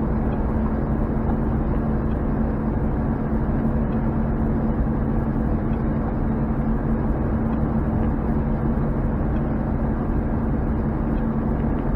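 Pickup truck engine and road noise heard inside the cab, a steady even drone while the truck tows a heavily loaded trailer.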